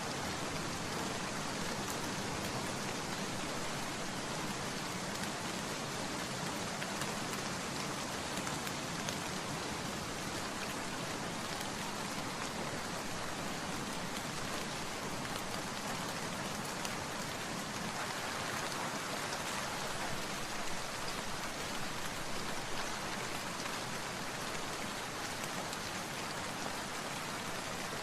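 Steady rainfall pattering on surfaces, an even hiss of many drops with no breaks, swelling a little past the middle.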